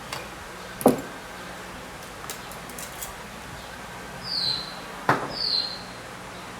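A few sharp clicks and knocks, the loudest about a second in and another about five seconds in, over a faint steady hum, with two short falling chirps around four and five seconds in.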